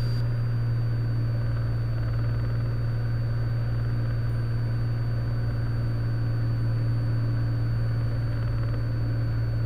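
Steady drone of a Cessna Skylane's piston engine and propeller in cruise descent, a constant low hum with a faint high whine over it.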